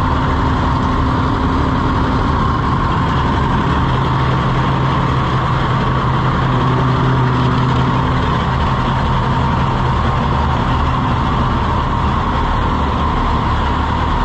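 Old tractor engine running steadily at idle after a cold start.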